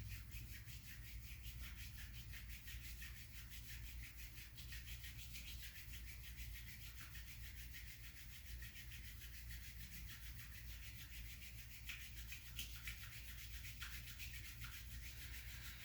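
Palms of the hands rubbed quickly together: a faint, steady swishing hiss of skin on skin.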